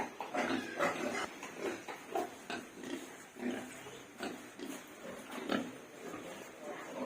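Farm animal calls: a rapid, irregular run of short calls, about two or three a second.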